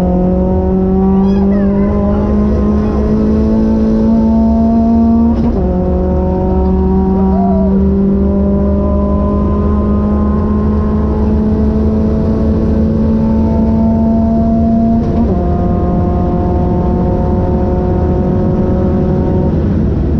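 Renault Clio 182's 2.0-litre four-cylinder engine heard from inside the cabin under full throttle, its pitch climbing slowly as it pulls down a straight. The revs drop sharply about five seconds in with a gear change, climb again, and drop once more about fifteen seconds in, over a steady rumble of road and tyre noise.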